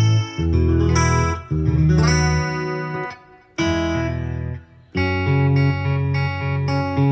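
Yamaha PSR-S970 arranger keyboard playing a sampled guitar voice: chords held for a second or so each, with two short breaks near the middle, then one chord struck again and again about twice a second near the end.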